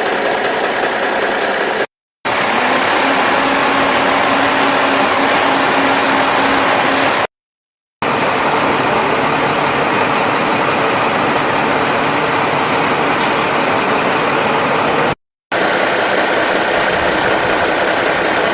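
Heavy diesel engine of an excavator running steadily at work, with a steady hum for several seconds after the first break. The sound drops out to total silence three times, briefly each time.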